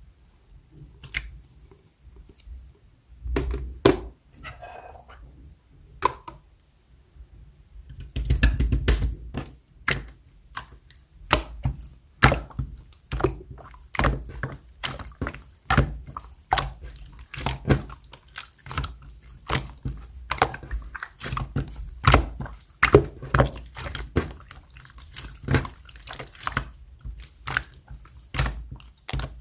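Clear slime being squeezed and pressed by hand, giving sticky popping clicks and wet squelches. They come only now and then at first, then from about eight seconds in they run thick and fast, a couple or more each second.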